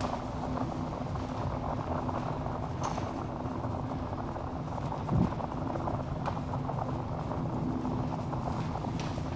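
Wood fire burning in a fireplace: a steady low rumble of flames with a few sharp crackles and pops spread through, and one dull low thump about five seconds in, the loudest moment.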